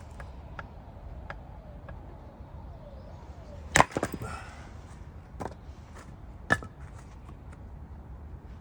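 Hatchet striking firewood: a sharp chop about four seconds in, followed by a few lighter knocks, and a second chop about two and a half seconds later.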